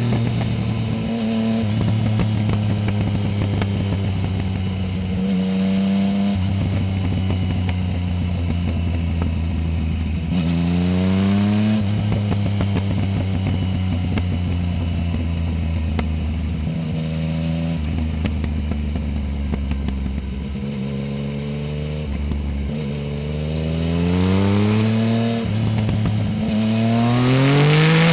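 Yamaha Tracer 900 GT's 847 cc three-cylinder engine through a full Roads Italia aftermarket exhaust with no dB-killer, heard while riding. It holds steady for stretches, then climbs in pitch and drops back several times as the bike accelerates and shifts gears, with repeated climbs near the end.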